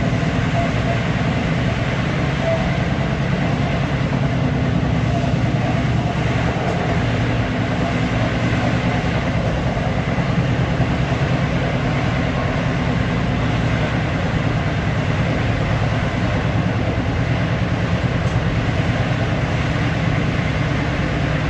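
LIRR M3 electric multiple-unit train running along the track, heard from on board as a steady rumble of wheels and running gear.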